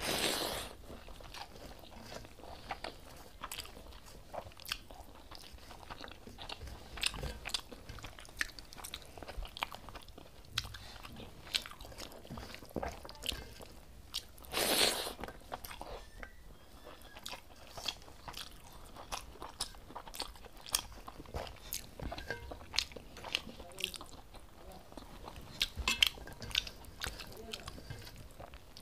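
A person eating curd rice with greens by hand: close-up chewing and lip-smacking clicks throughout, with two louder, longer mouth sounds as handfuls go in, near the start and about halfway through.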